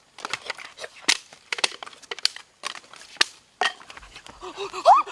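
Irregular crunches and sharp cracks, some louder than others. Near the end a dog starts to whine.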